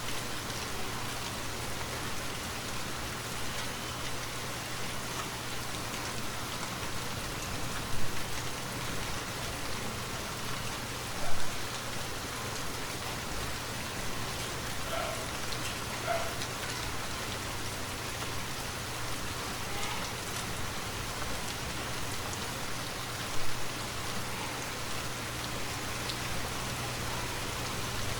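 Steady rain falling on forest foliage, an even hiss, with three louder close drops or taps, about 8, 11 and 23 seconds in.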